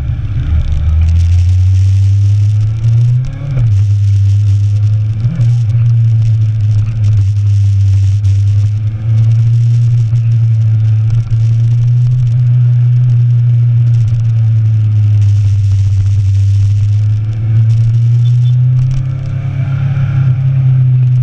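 Motorcycle engine pulling at a steady speed under way, with wind rushing past. A brief dip and wobble in the engine note comes about three and a half seconds in.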